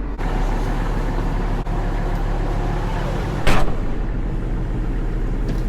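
Diesel tractor engine running steadily under way, with a short loud burst of noise about three and a half seconds in.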